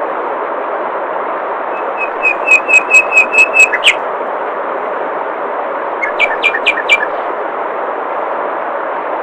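Flowing water with a steady rush, over which a songbird sings a quick run of repeated high notes about two seconds in, ending in a short downward slur, and then a shorter run of notes around six seconds in.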